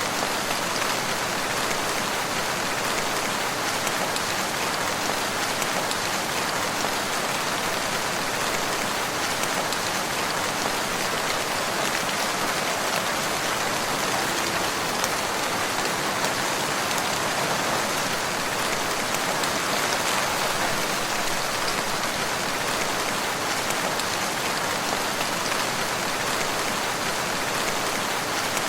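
Steady rain falling on surfaces, an even hiss of many drops with no thunder.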